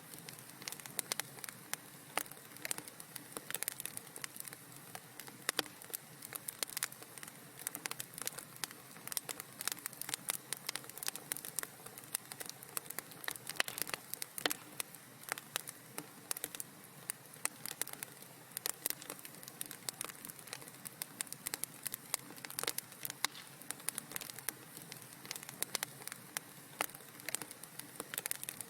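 Wood fire in a fireplace crackling: a steady low hiss with many sharp, irregular pops and snaps.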